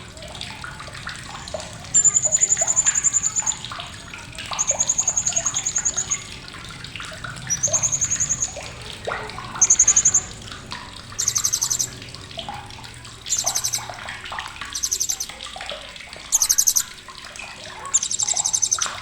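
Blue-crowned hanging parrot (srindit) giving sharp, very high-pitched rapid trills in repeated bursts, about nine in all, each from half a second to a second and a half long.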